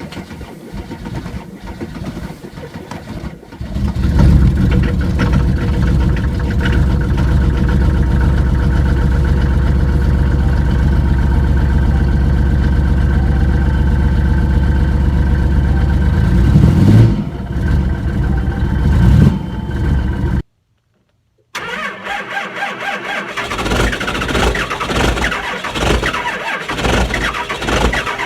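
Diesel engine cold-starting in hard frost: a few seconds of quieter cranking, then it catches and runs loud and steady with a strong low rumble, its speed rising and falling unevenly for a few seconds near the end. After a second of silence at a cut, another engine is heard starting, uneven and pulsing.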